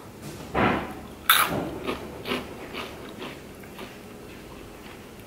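A person chewing a crunchy snack: a run of crisp crunches, the loudest a little over a second in, growing fainter and dying away about four seconds in.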